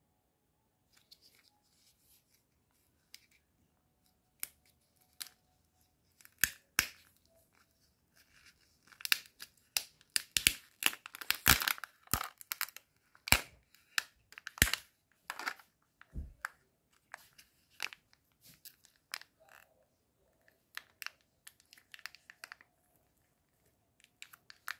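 Foil wrapper of a Kinder Surprise chocolate egg being torn open and crinkled by hand: irregular crackles and tearing, sparse at first, busiest in the middle, then thinning out.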